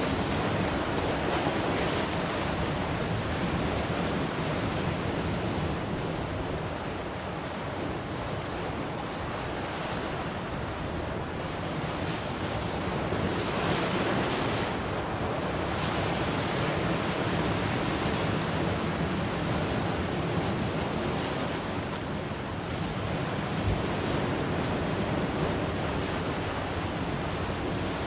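Ocean waves breaking and washing onto a shore, a continuous surf hiss that swells and eases slowly, louder surges about a second in and again around the middle.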